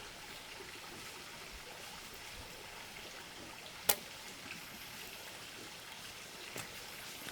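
A steady, even hiss of background noise with a single sharp click about four seconds in.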